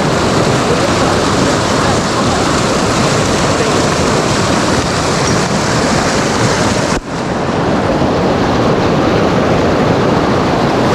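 Loud, steady rush of falling jungle water close to the microphone, with a brief dip about seven seconds in.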